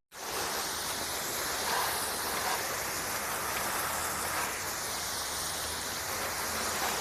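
Garden hose spray rinsing soap off a car's body, a steady rush of water hissing and splashing on the panels.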